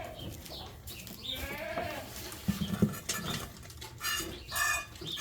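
Goats bleating, three calls about 1.5 s, 4 s and 4.6 s in, with a short clatter in between.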